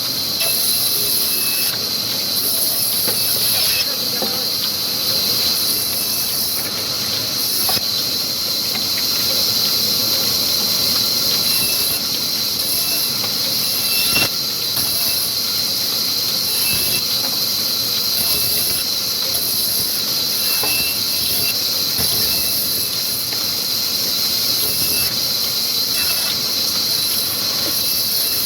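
Old 22 hp, 300 rpm black diesel engine driving a wood-cutting saw machine, running steadily with a constant high hiss and short squeals now and then.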